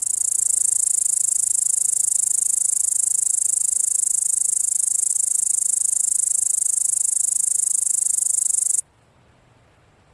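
Grasshopper stridulating: a continuous high-pitched buzzing trill that cuts off suddenly about nine seconds in.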